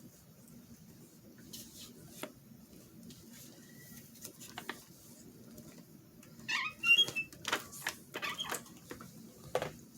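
A squeaky noise: short, high, wavering squeaks about six and a half seconds in, followed by a run of brief sharp scraping strokes.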